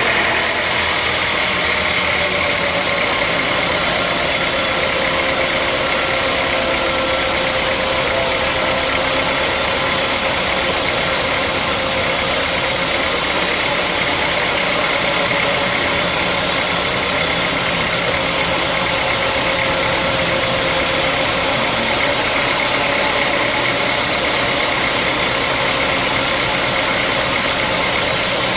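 Sawmill machinery running steadily: an even mechanical din with one held tone that sinks slightly in pitch over the first few seconds, then holds.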